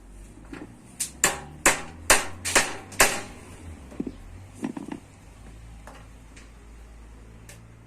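Hammer striking metal: a quick run of about seven sharp blows in two seconds, then a few lighter knocks.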